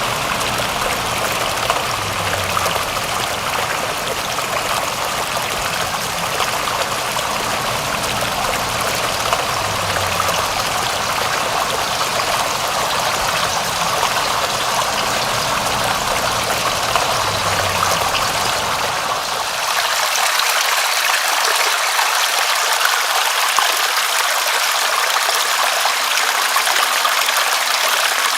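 Steady rushing of running water, even and unbroken. About two-thirds of the way through, the low rumble drops away and the hiss turns brighter.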